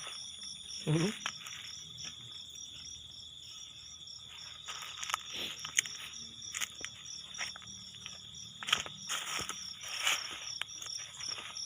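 Crickets and other insects chirping, with one steady high trill and a fast, even pulsing above it, while footsteps crunch irregularly through dry vegetation.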